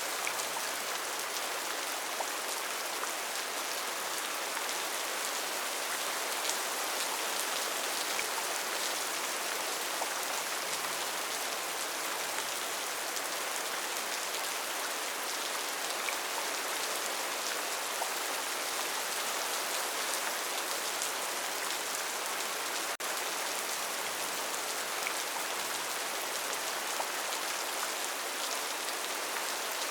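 Steady, even rainfall in a rainforest, with scattered individual drops ticking through it.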